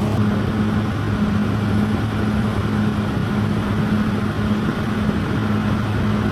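Bulldozer's diesel engine running steadily with a low drone.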